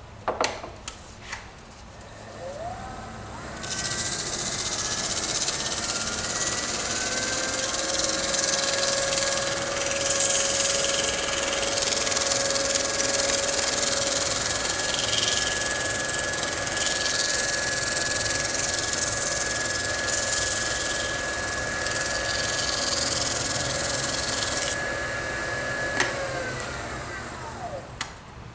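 Wood lathe starting up: its motor whine rises in pitch and then runs steady, while something rubbing against the spinning wooden bowl hisses for about twenty seconds. Near the end a click, and the whine falls away as the lathe is switched off and spins down.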